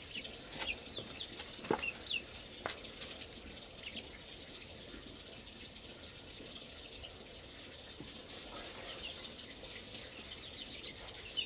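Steady high-pitched drone of insects, with short bird chirps scattered through it and a few faint clicks.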